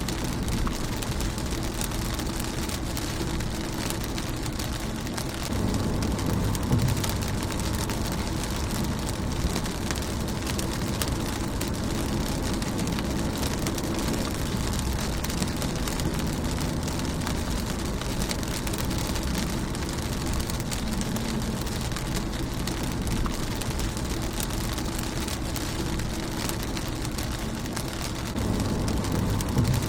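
Rain falling steadily on a car's windshield: an even hiss with many individual drops ticking on the glass. A low rumble swells briefly about a fifth of the way in and again near the end.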